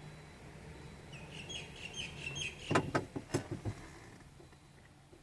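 A quick run of short, high bird chirps, followed by a burst of several sharp clicks and knocks, over a low steady hum.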